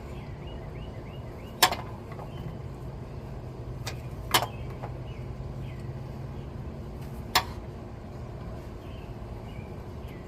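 Three sharp knocks, a few seconds apart, as an oil filter wrench is worked against a stuck oil filter to break it loose, over a steady low hum.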